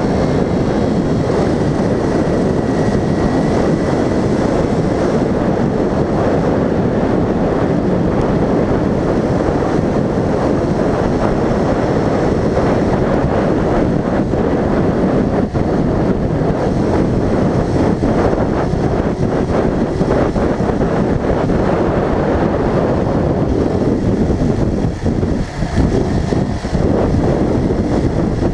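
A vehicle being driven: steady engine and road noise with wind on the microphone, dipping briefly a few seconds before the end.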